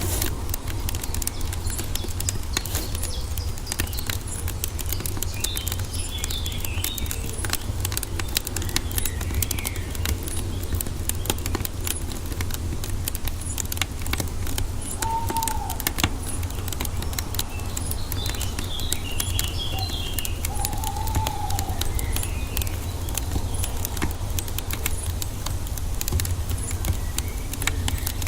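Wood fire crackling and popping in quick, irregular clicks over a steady low rumble of flames, with birds chirping now and then in the background.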